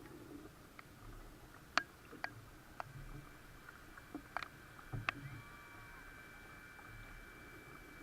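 Quiet background with a few scattered sharp clicks and light knocks, the loudest a little under two seconds in, over a faint steady high-pitched whine.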